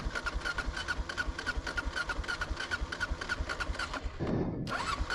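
Motorcycle engine cranking over on its starter without catching, a steady chug of about five beats a second; the cranking stops briefly about four seconds in, then starts again. The engine is flooded, as the owner later puts it: "She was flooded out."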